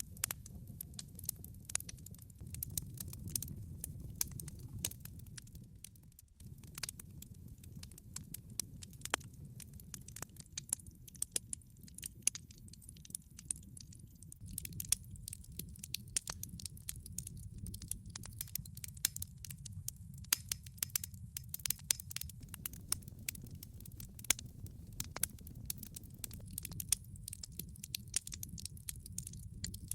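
Wood fire burning in a fireplace: frequent sharp, irregular crackles and pops from the burning logs over a low steady rumble of the flames. The rumble drops out briefly about six seconds in.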